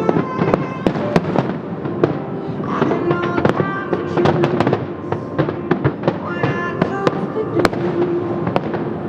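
Fireworks bursting in rapid, dense succession, many sharp bangs and crackles, over music playing along with the show.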